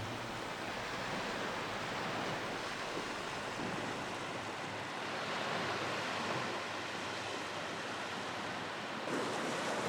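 Sea waves washing onto a beach: a steady, gently swelling rush of surf.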